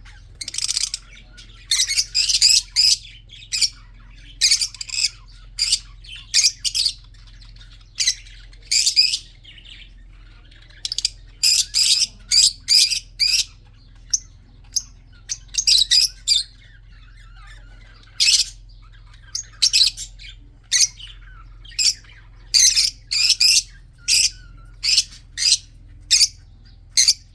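Budgerigars chirping and squawking in short, sharp calls that come in quick runs with brief pauses between, over a faint steady low hum.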